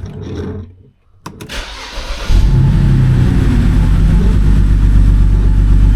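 BMW N52 straight-six engine starting about two seconds in, then running at a loud, steady idle. The idle has a misfire that the owner traces to a faulty cylinder 2 ignition coil.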